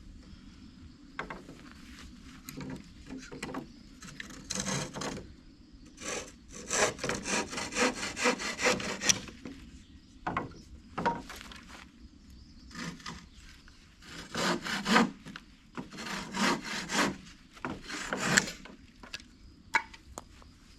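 Hand saw cutting through dry wood in several runs of quick, even back-and-forth strokes, with short pauses between the runs.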